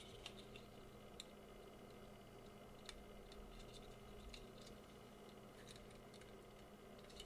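Near silence: a steady low room hum with a few faint, scattered light clicks.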